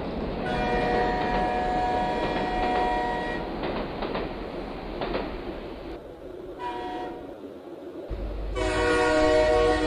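Multi-tone train horn sounding three times over the rumble of a running train: a long blast of about three seconds, a short toot around the middle, and another long blast starting near the end.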